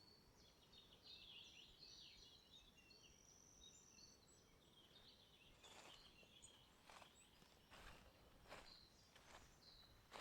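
Faint songbird chirps and twittering through the first few seconds. From about halfway in, footsteps on a forest path, roughly one step every three-quarters of a second.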